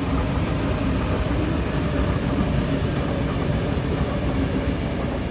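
Passenger train running, heard from inside the carriage: a steady rumble of wheels on the track with a faint low hum.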